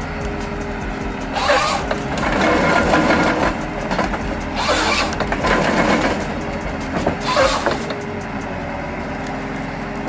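Heavy diesel logging machinery running steadily, with three loud rushing bursts of noise about three seconds apart.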